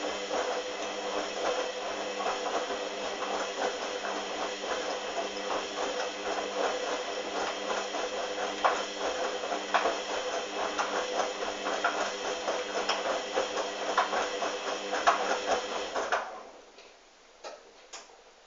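Hoover washing machine's motor turning the drum, a steady run with a dense clatter of clicks and rattles, cutting off about sixteen seconds in; a few single clicks follow.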